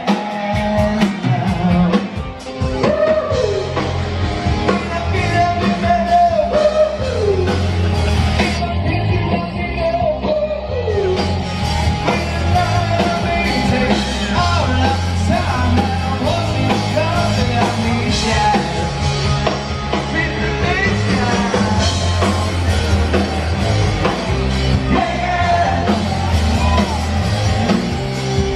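A live rock band playing a song, with a lead singer over a steady bass line and drums.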